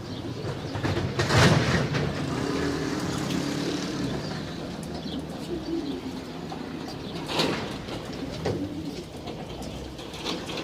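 Homing pigeons cooing, low wavering calls repeated through the stretch. Two brief noisy bursts break in, one about a second and a half in (the loudest sound) and another about seven seconds later.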